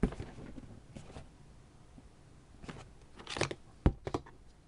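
Packaging being handled and unpacked: rustling of paper and plastic, with a sharp knock at the start and another about four seconds in.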